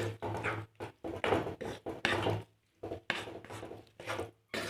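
A wooden spatula scraping and stirring food in a cooking pan: an irregular run of short scrapes, about two or three a second.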